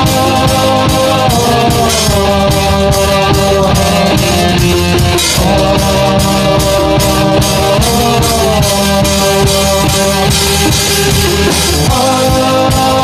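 Rock band playing an instrumental passage: a drum kit keeps a steady beat with regular cymbal hits under a sustained melody line that slides from note to note every few seconds.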